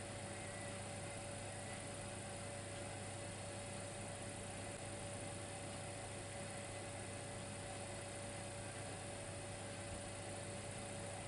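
Dimplex electric fireplace running: a steady low electrical hum with a thin constant whine over an even hiss.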